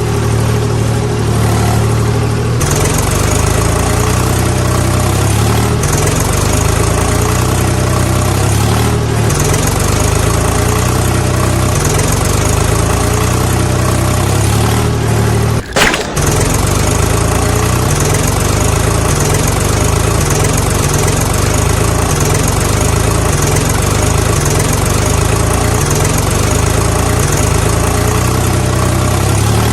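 An engine running steadily at idle, with a slight rhythmic beat. About halfway through it is broken by a sharp click and a very brief drop before it carries on.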